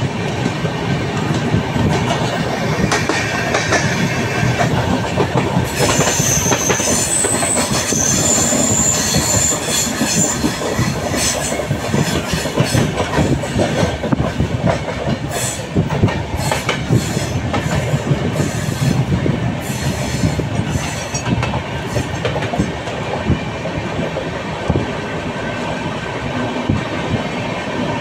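Train running on the track: a steady rumble with wheel clicks over the rail joints. A high wheel squeal comes in about six seconds in and lasts a few seconds, and a run of sharp clicks follows about halfway through.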